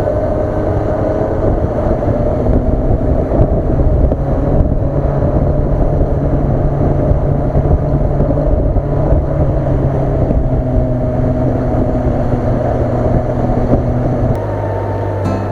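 Honda CB400SB inline-four engine running at steady cruising revs while riding, heard from the bike with wind rushing over the microphone. The engine note drops near the end as the throttle eases off.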